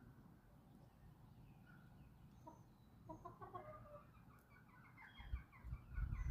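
Backyard chickens clucking: a run of short clucks about three seconds in and another building toward the end, with small birds chirping high in the background. A low rumble comes up near the end.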